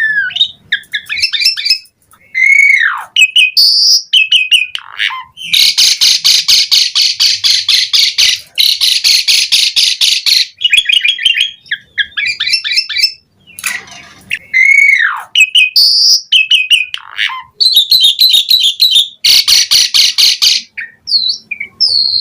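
Asian pied starling singing vigorously: long falling whistles alternate with loud, rapid chattering runs and short clipped notes.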